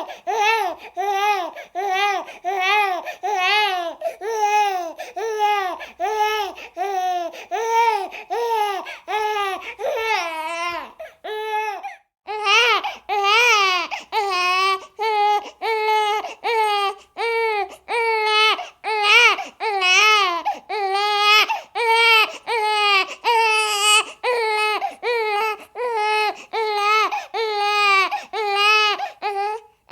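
Infant crying in short, repeated wails, about two a second, each rising and falling in pitch, with a brief pause for breath about twelve seconds in.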